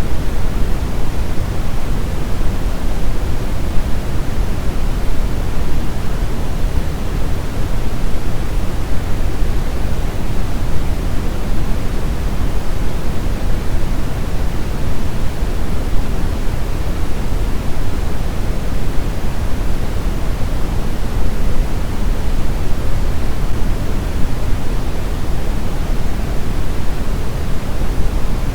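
Steady brown noise: an even, deep rushing hiss, strongest in the lows, with no changes or events.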